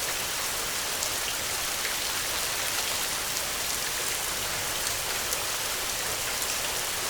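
Steady rain falling: an even hiss of rain with scattered faint drop ticks, no thunder.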